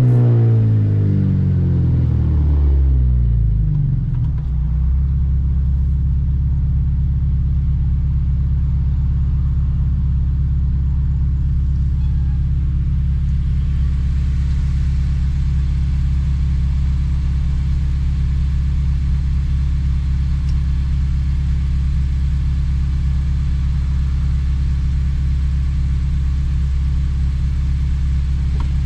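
2007 Honda Civic Si's 2.0-litre four-cylinder engine, revs falling off over the first few seconds after a pull. It then runs at a steady low engine speed with a constant low drone.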